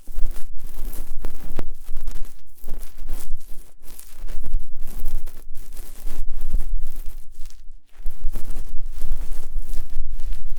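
ASMR ear-cleaning sounds: an ear pick scraping and rubbing close against the microphone. The scratchy strokes are irregular, with short pauses between them, and a low handling rumble runs underneath.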